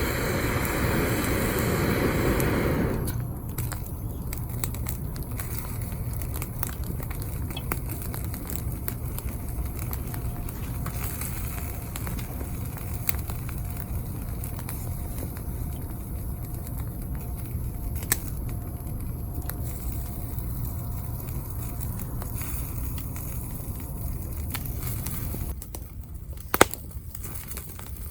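Wood campfire crackling, with scattered small pops over a steady low rumble. A louder rushing noise fills the first three seconds, and one sharp snap comes near the end.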